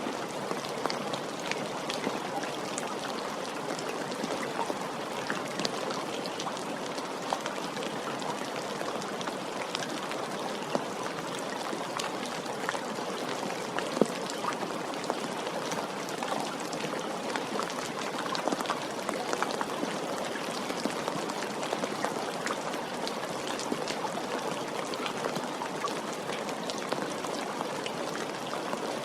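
Steady rainfall: an even hiss of rain with many small, scattered drops ticking on a surface, one sharper drop about halfway through.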